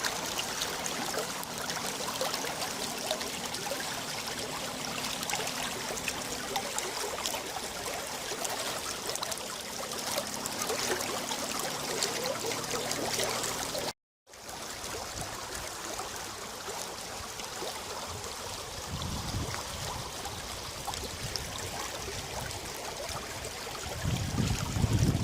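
Water of a rain-fed wadi rushing and trickling along its bed, a steady hiss, with a brief cut to silence about halfway through. Near the end, wind buffets the microphone with a low rumble.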